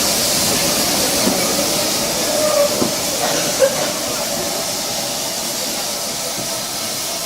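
Steam locomotive letting off steam: a steady hiss, with a few light knocks in the middle.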